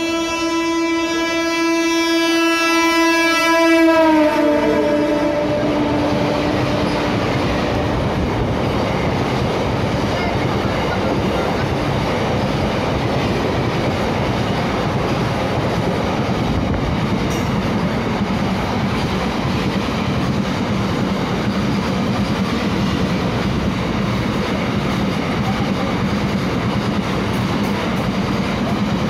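Empty freight train passing at speed. The locomotive's horn sounds for about the first four seconds, then drops in pitch as the locomotive goes by, followed by the steady noise of the empty wagons' wheels running over the rails.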